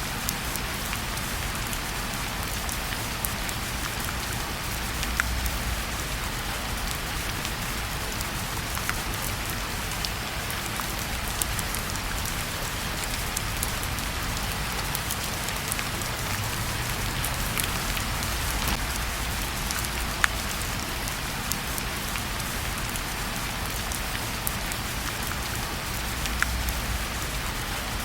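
Steady rain falling on a surface, mixed with a crackling fireplace that gives scattered sharp pops every second or two.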